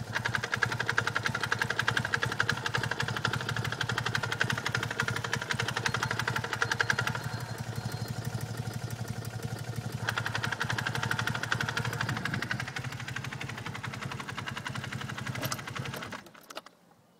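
BMW R100RT's air-cooled flat-twin engine running with a fast, even ticking clatter, a suspicious rattle the owner is trying to identify; it is louder in stretches and then shuts off near the end.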